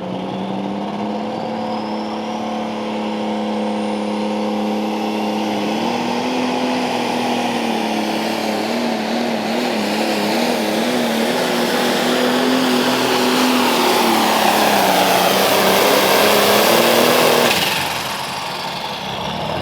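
Turbocharged diesel pulling-tractor engine under full load during a pull, its note held high and wavering for a few seconds midway, with a rising turbo whine over it. It gets louder toward the end, then drops off suddenly as the throttle comes off near the end.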